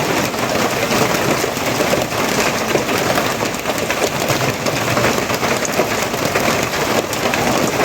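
Rain falling steadily on a surface: a dense, even patter of countless drops.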